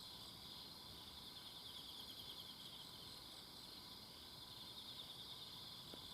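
Faint chorus of insects chirping steadily in a forest, a dense pulsing trill high in pitch with a thinner steady tone beneath. A single faint click near the end.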